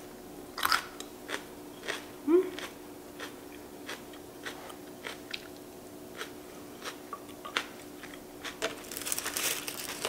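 Close-up crunchy chewing of raw green chili pepper, with sharp crunches every half second or so. Near the end comes a denser burst of dry crackling as sheets of roasted seaweed are handled.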